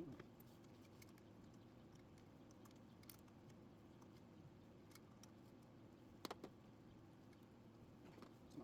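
Near silence with faint room tone, broken by a few sharp metallic clicks and taps of hand tools, the clearest pair about six seconds in.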